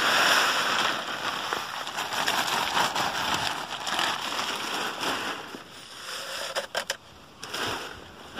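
Dry chicken feed being poured and mixed in a container, a rushing, rattling hiss that swells and fades, with a few sharp clicks near the end.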